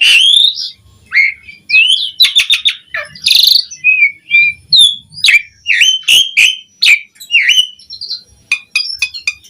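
Asian pied starling (jalak suren) in full song: a varied run of whistles, chirps and glides with a harsh rasping note about a third of the way in, then quick sharp calls repeated about twice a second.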